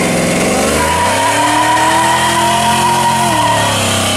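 1969 Plymouth Road Runner's V8 accelerating hard past, its note climbing for about two seconds, holding, then dropping near the end. A steady high-pitched whine runs over the engine through most of the pass.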